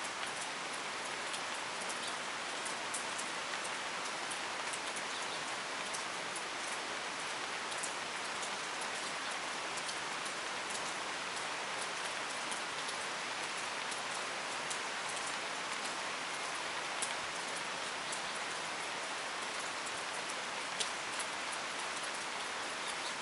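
Steady rain falling, with scattered sharper drop hits standing out here and there.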